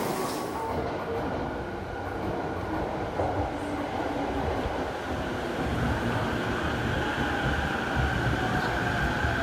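A train running, a steady rumbling noise with a faint high whine that grows a little stronger in the second half.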